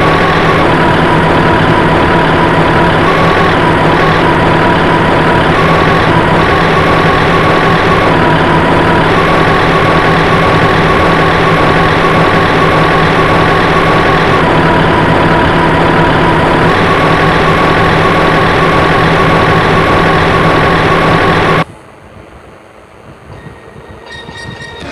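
Loud, steady machine noise, like a heavy vehicle running, with a low hum and a high tone that steps up and down between two pitches every second or two. It cuts off suddenly about 22 seconds in, leaving a much quieter sound.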